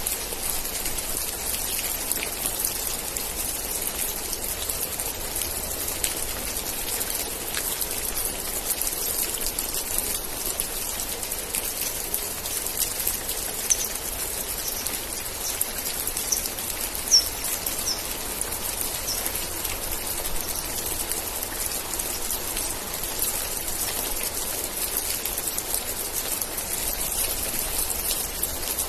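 Steady rain falling, with close individual drops pattering throughout. About halfway through, a short run of high chirps sounds over it.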